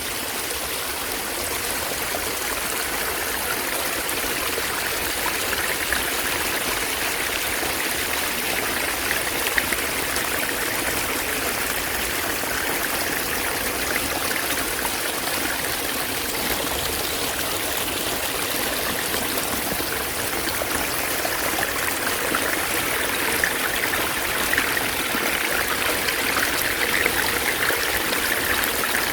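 Small mountain-valley stream flowing, a steady, lively babble of running water.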